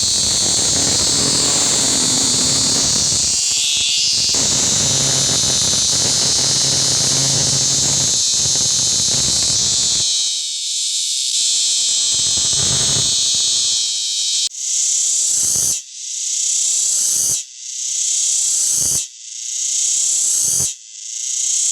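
Male cicada calling: a loud, shrill buzz made by its vibrating tymbals, unbroken at first, then from about two-thirds of the way in breaking into repeated phrases that each swell and cut off, roughly one every second and a half.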